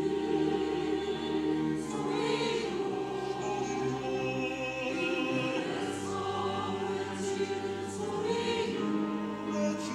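Church choir singing a sacred anthem in Korean, many voices holding long sustained notes with words.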